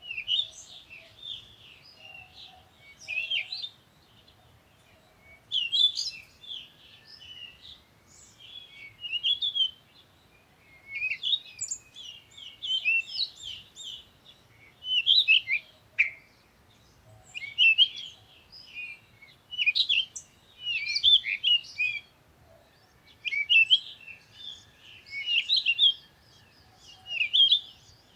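A bird chirping in repeated bursts of quick, high chirps, about one burst every two seconds.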